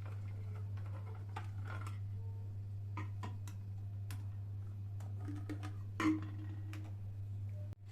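Scattered small clicks and taps of household objects being handled, over a steady low hum, with one louder knock about six seconds in.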